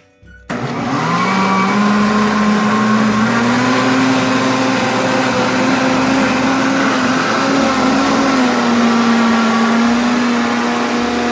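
Countertop blender switched on about half a second in, its motor pitch rising as it spins up and then running steadily while it mixes a pizza dough batter of eggs, margarine, milk and flour.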